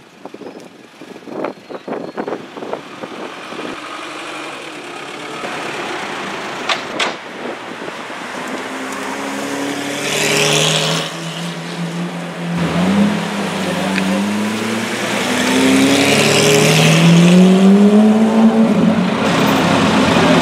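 Lamborghini Aventador's V12 engine revving and pulling away, its pitch climbing several times in a row. It grows steadily louder and is loudest near the end, with short noisy rushes of exhaust.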